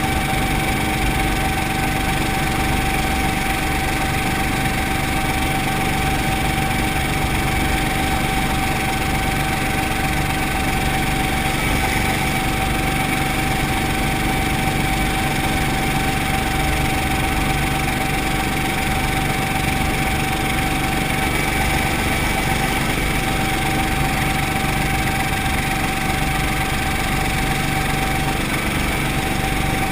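Brantly B2B helicopter's four-cylinder Lycoming piston engine and rotor system running steadily, with a steady whine over it.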